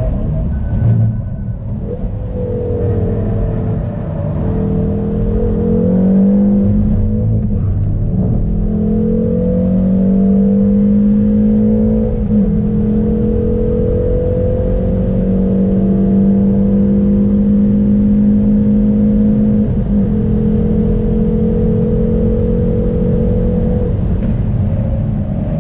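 Hyundai Veloster N's turbocharged 2.0-litre four-cylinder engine pulling hard at high revs, its pitch climbing slowly and then held, with short breaks in the note about twelve and twenty seconds in, over a low rumble of road noise.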